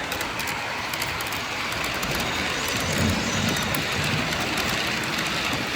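Model train running on a layout, its wheels clicking on the track, over a steady background din.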